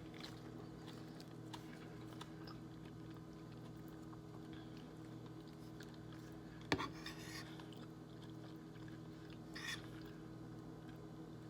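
A person quietly chewing and biting food, with faint clicks throughout and one sharp click a little over halfway through, then a softer one near the end, over a steady low hum.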